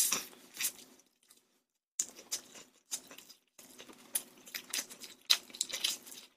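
Close-miked chewing of crispy spicy dakgangjeong (Korean glazed fried chicken bites): irregular crunching and wet mouth clicks, with a pause about a second in.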